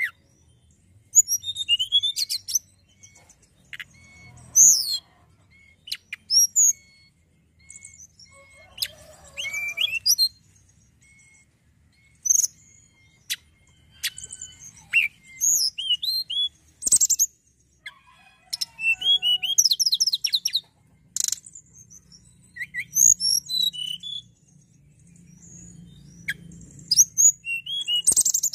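Tledekan gunung, a small Indonesian songbird, singing in bursts of quick, high chirps, whistled slurs and rapid trills, with pauses of a second or two between phrases.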